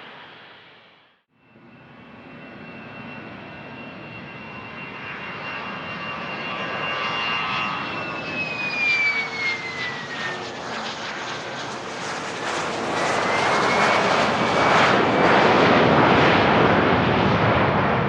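A business jet's turbofan engines passing close by on the runway. A high whine drops in pitch as the jet goes past, then a loud roar builds, loudest near the end.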